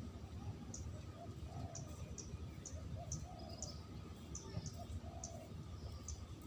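Spotted dove cooing: a string of soft, low coos repeating, with short high chirps recurring behind them.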